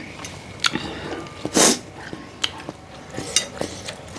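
Metal spoon clinking against a bowl of meatball soup while eating, several sharp clicks over the few seconds, with one brief loud rush of noise about one and a half seconds in.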